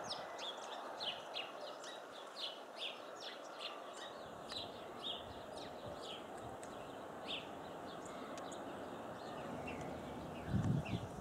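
Small songbirds giving many short, sharp chirps, several a second, over a steady background hiss. A couple of low thumps sound near the end.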